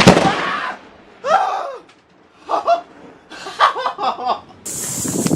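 A person laughing in short bursts after a fright, opening with a sudden loud noisy burst. Near the end a steady hiss cuts in abruptly.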